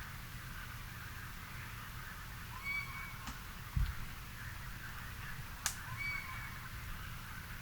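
A bird calling in an evening garden, repeating the same short call twice, about three seconds apart: a quick upward slur into a brief steady whistle. Under it runs a steady low rumble, with two sharp clicks and a short low thump between the calls.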